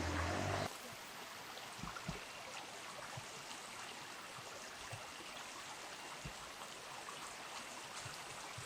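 Steady rush of a river or stream flowing. In the first second a louder low hum is heard, and it stops abruptly.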